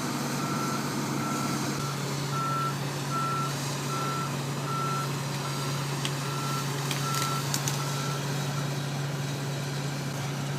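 A crane's warning alarm beeps steadily while it travels, about one and a half beeps a second, and stops about eight seconds in. Under it the crane's diesel engine drones steadily.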